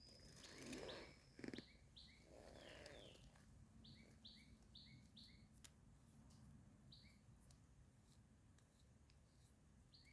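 Faint small-bird chirps, short notes repeated about two or three times a second for several seconds, over a steady high insect trill that stops about a second and a half in. Two soft rustles near the start.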